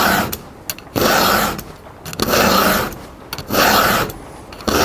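Round file rasping across chainsaw chain cutter teeth in freehand sharpening: five even push strokes, about one a second, with short pauses between them.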